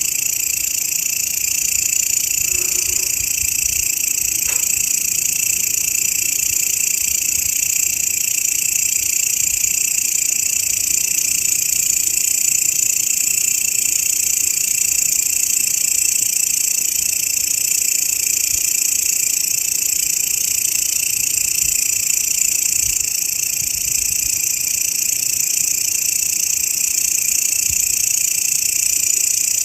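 Grasshopper (belalang) stridulating in a continuous, high, even buzz.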